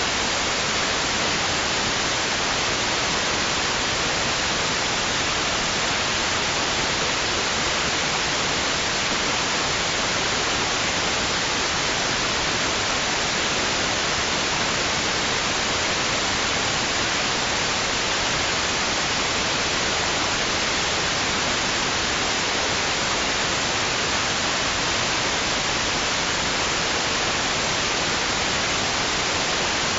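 Steady, unchanging hiss of white noise, played as a sleep sound for babies.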